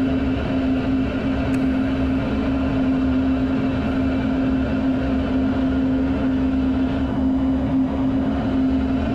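Steady noise inside a fighter jet's cockpit in flight: a constant droning hum over rushing air and engine noise.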